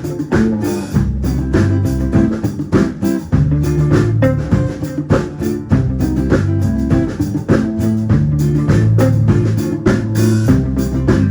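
A band playing with guitar, bass and drum kit to a steady beat.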